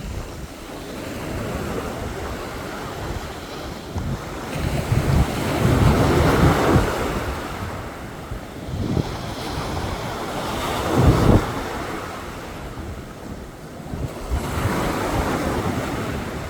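Waves surging onto a beach and washing back, in swelling rushes with the two biggest about a third of the way in and again past the middle, while wind buffets the microphone with a low rumble.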